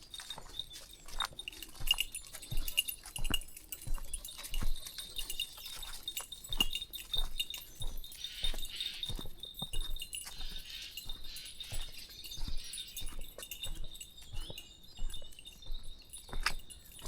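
Footsteps crunching along a country path, a few steps a second, with light metallic tinkling over them.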